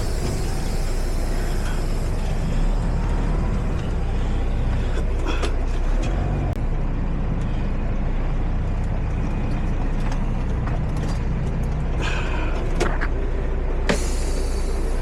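Semi-truck's diesel engine running steadily, heard from inside the cab, with a few sharp clicks and two short hisses near the end.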